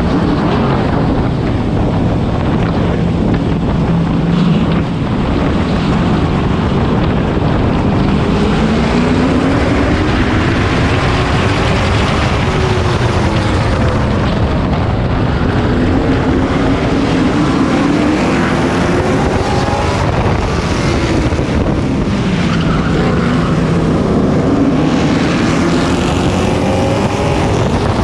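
Race truck engine heard on board at racing speed, its pitch rising and falling several times as the driver goes on and off the throttle through the corners and down the straights.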